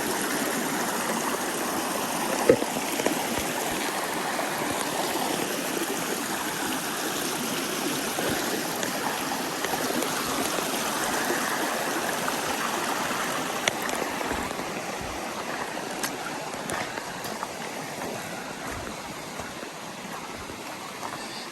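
A creek rushing over rocks, a steady water noise that grows fainter over the last several seconds, with a few light knocks.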